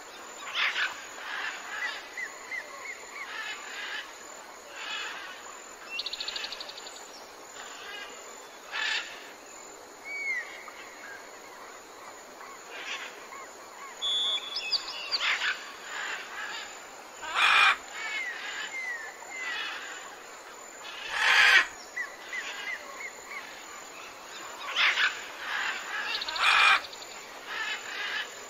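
Several birds chirping and calling: a steady run of short whistled chirps and trills, with a few louder calls in the second half.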